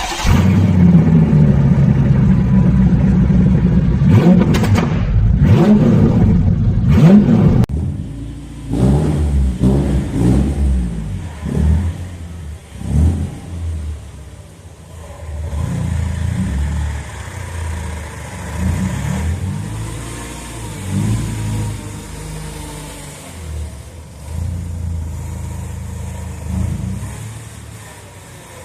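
Mercedes-Benz C180 W203's M111 four-cylinder engine revving, loud for the first several seconds, then a run of shorter throttle blips at a lower level.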